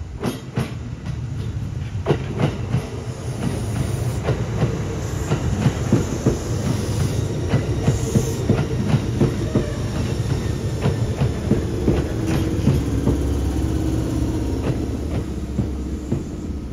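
Kintetsu electric commuter train running into the station, its wheels clacking over rail joints and points under a steady low rumble. A brief high wheel squeal comes about eight seconds in, and a steady hum comes in later as the train slows.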